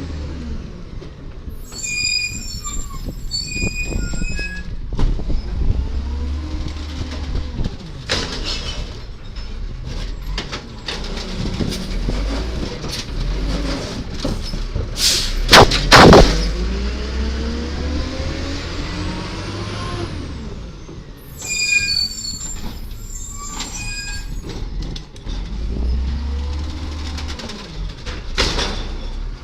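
A 1999 Volvo Amrep Octo automated side-loader garbage truck's diesel engine revs up and down as the truck works. High squeals come twice, and one loud bang about halfway through is typical of a can being dumped into the hopper.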